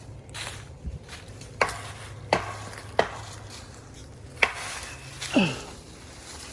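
A series of about five sharp knocks or cracks, spaced roughly a second apart, the last followed by a short falling tone.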